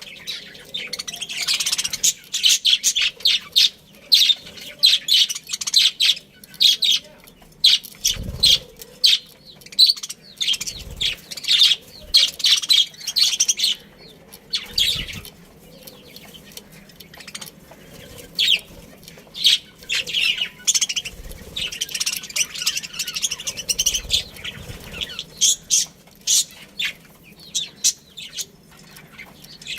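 A flock of budgerigars chirping and chattering continuously in rapid, overlapping short calls, with a few dull low thumps now and then.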